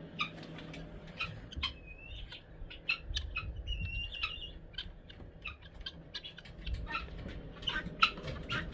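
Guineafowl calling: many short, sharp chip notes at an irregular pace, with two brief whistled notes about two and four seconds in.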